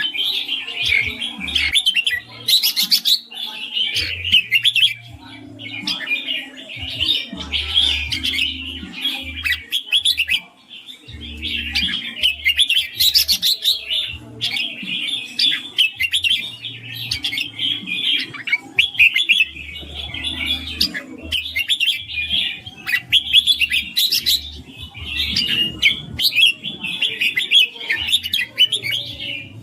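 Red-whiskered bulbul singing, with quick chirping and whistled phrases that run on with only brief pauses.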